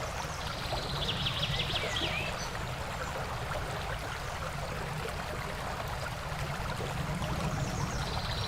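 Steady outdoor background hiss with a few faint high chirps, once early and again near the end.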